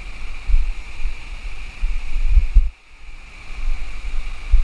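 Wind buffeting the microphone in gusts over the steady rush of river water; the buffeting drops out briefly about three seconds in.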